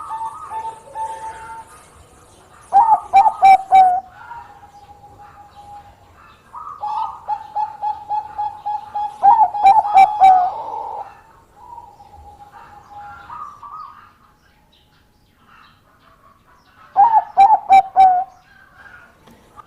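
Bangkok-type zebra dove (perkutut) singing its rapid, staccato cooing song. There are three loud bursts of several strong coos, a few seconds in, about halfway and near the end, with softer strings of quick notes between them.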